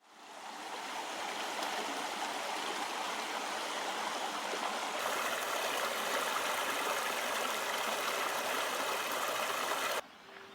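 Shallow river babbling over stones, a steady rush of water. It fades in at the start, grows a little brighter about halfway through, and cuts off suddenly near the end.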